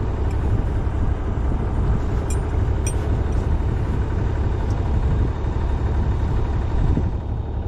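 A sailing yacht's engine running steadily at low revs, a constant low rumble.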